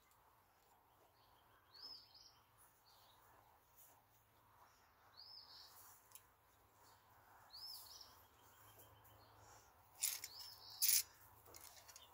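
A bird calling: a short rising-and-falling chirp every two to three seconds, four in all, over faint outdoor background noise. Near the end come two sharp clicks, the loudest sounds here.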